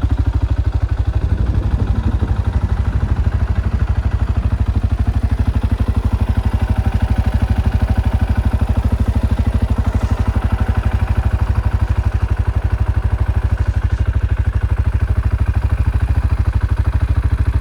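ATV (quad bike) engine running steadily, its exhaust beating in a fast, even pulse with a little rattle early on.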